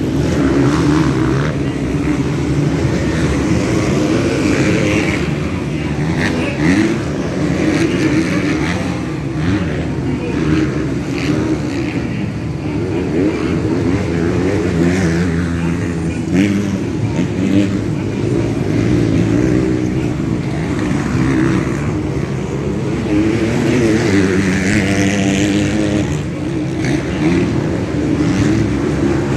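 Motocross motorcycle engines racing, revving hard and rising and falling in pitch continuously as the bikes accelerate and back off around the track.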